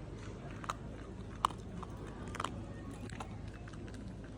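A small dog chewing a snack, with a few sharp crunches.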